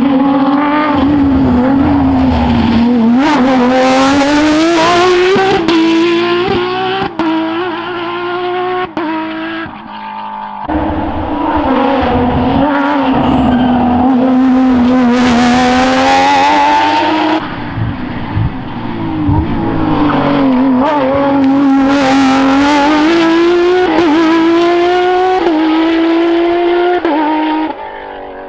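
A Porsche rally car's engine at full throttle, its note climbing and dropping back again and again as the driver shifts gear and lifts off, with a hard lift about ten seconds in. Bursts of tyre noise come through in places.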